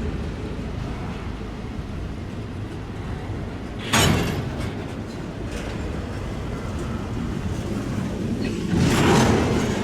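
Train rolling past with a steady low rumble. A sudden loud bang about four seconds in, and a louder surge of noise around nine seconds.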